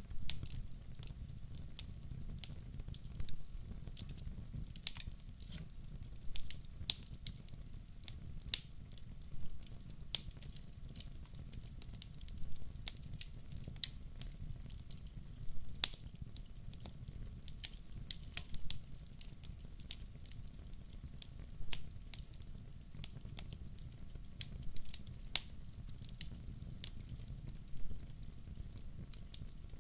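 Firewood burning in a fireplace, crackling with irregular sharp pops over a steady low rumble.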